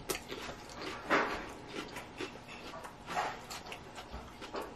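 A person chewing a mouthful of romaine salad with the mouth closed, soft and wet, with two louder moments about a second and three seconds in.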